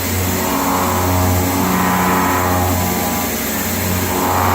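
CNC milling machine face milling 316 stainless steel: the face mill runs steadily in the cut over the hiss of through-spindle air. Its cutting tone swells and fades every couple of seconds.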